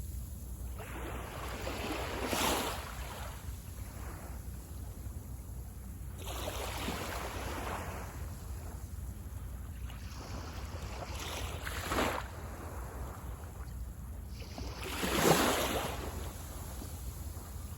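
Waves breaking and washing up on a beach, four in turn every four seconds or so, the last the loudest, over a steady low rumble.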